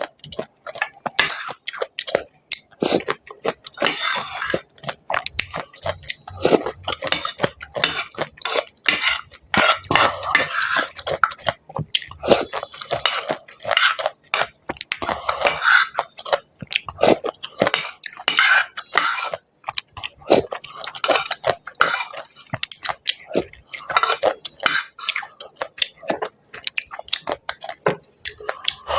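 Close-miked crunching and wet chewing of crisp golgappas (pani puri shells), with many quick, irregular cracks and crackles throughout.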